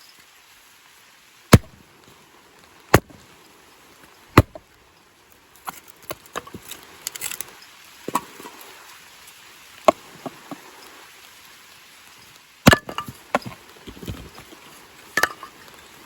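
Firewood being chopped: three sharp strikes about a second and a half apart, then lighter knocks and the clatter of split pieces, and another strong strike followed by a quick run of knocks near the end.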